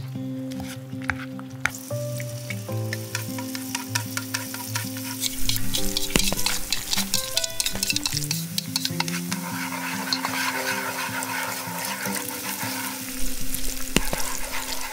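Food sizzling and crackling as it fries in a pan, with light clicks of a utensil stirring. The sizzle starts about two seconds in and thickens about halfway through. Soft background music plays underneath.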